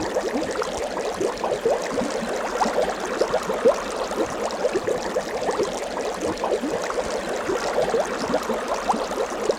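Water bubbling and gurgling: a steady stream of quick little bubble blips over a soft watery hiss.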